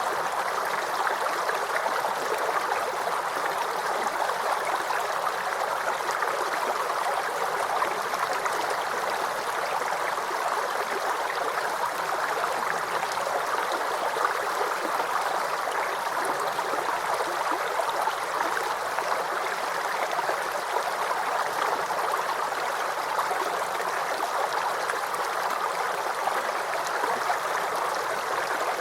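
Babbling brook, water streaming and gurgling over stones at a steady level.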